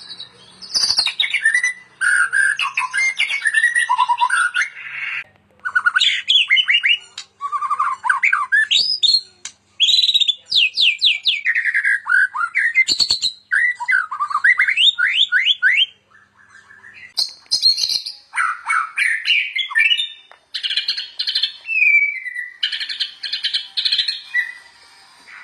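White-rumped shama singing a long, varied song of whistled glides, fast repeated notes and rapid chattering trills, broken by a few short pauses.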